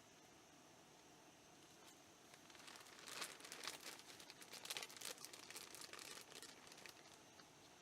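Quiet crinkling and crackling of something being handled, dense for about four seconds from around two and a half seconds in, with a faint steady high hiss underneath.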